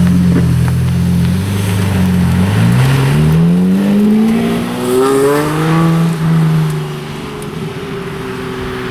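A supercar's engine held at steady revs, then accelerating with its pitch climbing for about two seconds, a second short climb through a gearchange, then dropping to a quieter, steadier sound as the car drives away.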